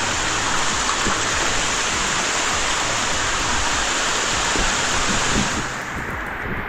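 Steady rushing water from a waterfall, a dense, even roar that drops away and becomes quieter and duller near the end.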